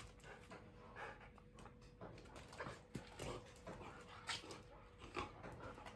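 Husky dog whimpering quietly, amid scattered short clicks and rustles.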